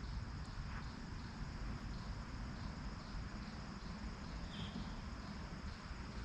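Insects trilling steadily in a high, faintly pulsing band, over a low rumble of outdoor noise.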